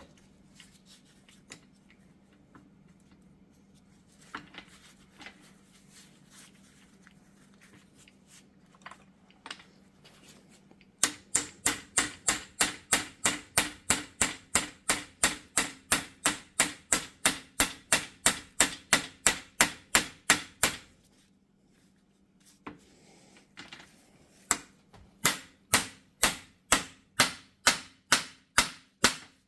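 Steady hammer taps on metal, about three a second, driving the last universal joint bearing cap into the Jeep's front axle yoke. Small handling clicks come first. The tapping starts about a third of the way in, stops briefly past two-thirds, then starts again.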